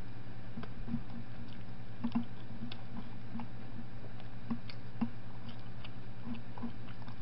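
Faint wet clicks and soft smacks of someone chewing food, coming irregularly, over a steady low electrical hum.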